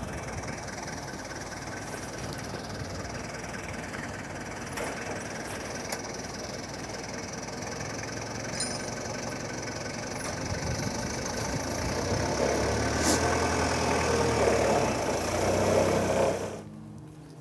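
Helicopter running, its engine and rotor noise growing louder over the last several seconds before cutting off abruptly near the end.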